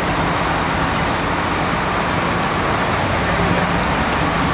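Steady low rumble of bus and traffic engines, with a constant low hum.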